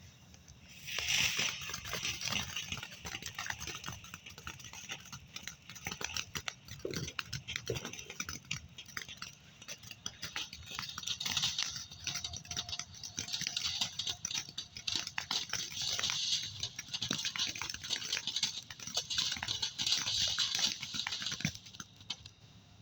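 A lit ground firework spraying, with a steady hiss full of fast crackling. It starts about a second in, runs for about twenty seconds and cuts off shortly before the end.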